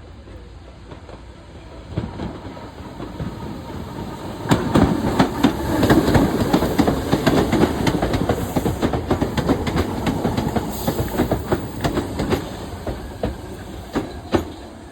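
A train running past on the rails, its wheels clattering over rail joints and points. It builds from about two seconds in, is loudest through the middle with rapid irregular clicks, and fades near the end.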